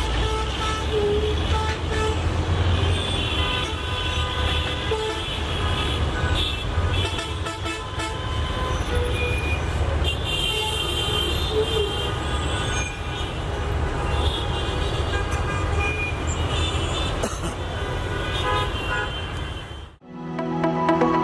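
A steady low rumble of railway and traffic noise, with many short horn toots on top. About 20 seconds in, it cuts off abruptly and music begins.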